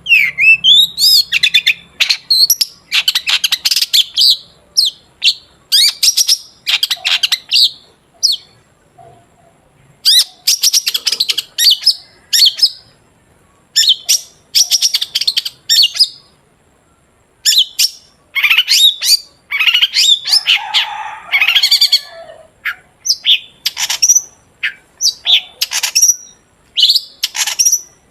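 Long-tailed shrike (cendet) singing loudly in bursts of rapid, high chattering phrases separated by short pauses, typical of a shrike in full song.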